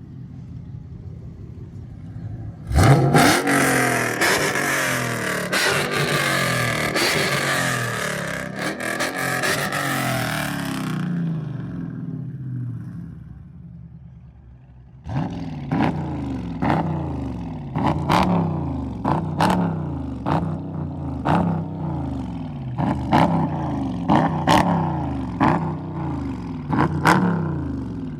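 Dodge Charger SRT 392's 6.4-litre HEMI V8 opening up under hard acceleration about three seconds in, then easing off. From about halfway there is a run of short repeated revs, roughly one a second, with sharp pops at each peak.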